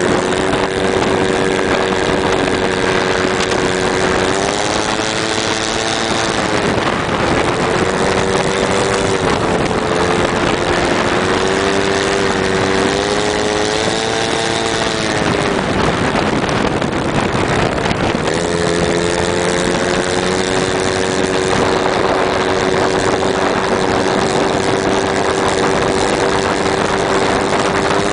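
Motorbike engine running while riding, its pitch rising and falling several times with the throttle, over a steady rush of wind.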